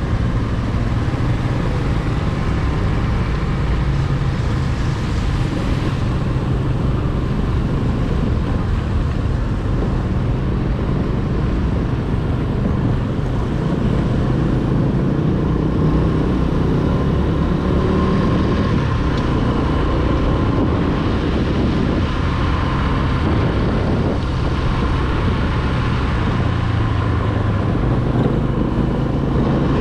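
Corven 110 Energy's small single-cylinder four-stroke engine running steadily while riding, mixed with road and traffic noise.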